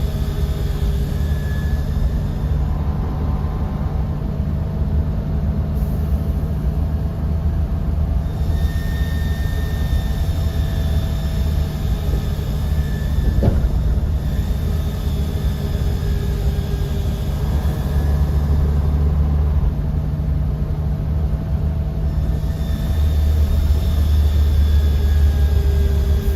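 Bus interior on the move: a steady, deep engine and road rumble with faint whining tones that fade in and out. The low rumble swells twice in the second half, and there is one brief click about halfway.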